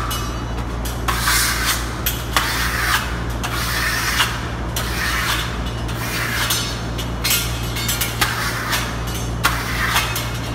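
Steel marmorato trowel scraping across a partly dried coat of burnt-cement texture on a wall in repeated short strokes, more than a dozen of them, burnishing it to raise a shine and break off the ridges. A steady low hum runs underneath.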